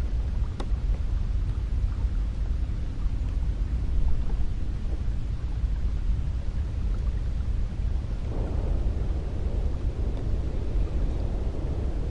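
Cold wind blowing in a steady, low rumbling rush, with a gust swelling up about two thirds of the way through.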